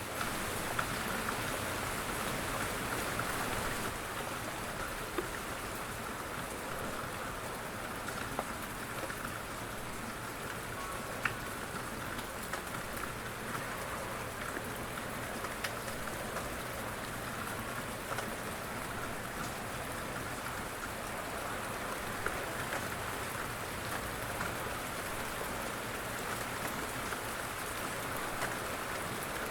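Light rain falling steadily on a surface, an even patter with individual drops ticking now and then, a slightly louder one about 11 seconds in.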